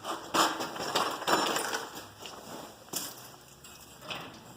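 Irregular knocks, scrapes and clatter of tools and metal hardware being handled, busiest in the first couple of seconds, then a few single clicks.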